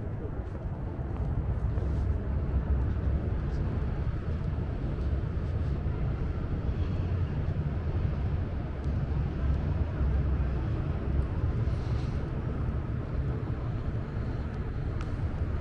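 Steady low rumble of city background noise, a little louder about two seconds in.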